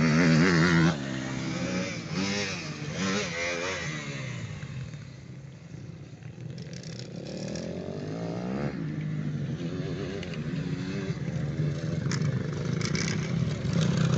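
Motocross motorcycle engines revving as riders go round the track, the pitch rising and falling with the throttle. Loudest in the first second, it fades away around the middle, then rises again with a climbing rev and builds toward the end.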